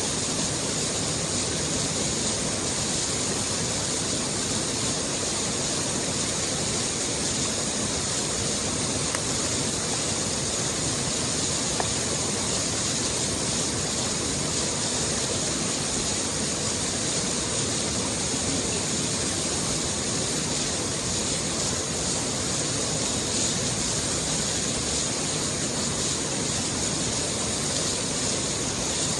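Steady rushing of a flowing stream, an even, unbroken wash of water noise that stays at one level throughout.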